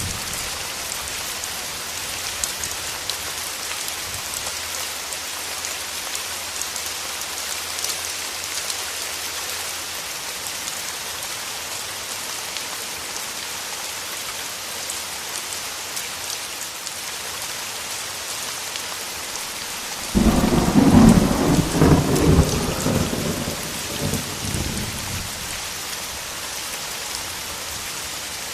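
Steady rain falling throughout. About twenty seconds in, a sudden loud clap of thunder breaks out and rumbles for several seconds before fading back under the rain.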